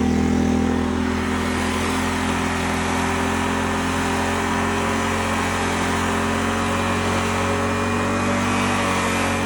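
Small petrol engine of a home-built lawnmower off-roader running steadily at a constant speed.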